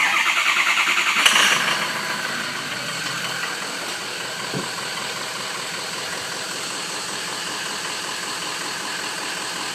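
Ford 6.0L Power Stroke V8 diesel cranking for about a second, catching with a brief surge, then settling into a steady idle. It is a cold start, with oil at about 95 degrees, on an engine where several cylinders are not picking up on the power balance test.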